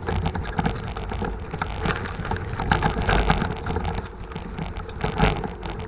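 Riding noise from a Forward mountain bike: wind rushing over the microphone with a steady rattle and clicks from the bike over the road surface, and a few sharper knocks around the middle and near the end.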